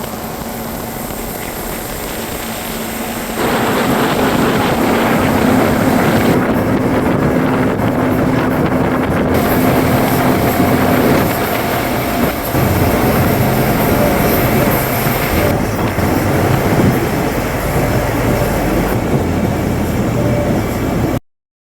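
Motorboat under way: the engine runs steadily with a low hum under a wash of wind and water noise. It grows louder about three seconds in and cuts off abruptly near the end.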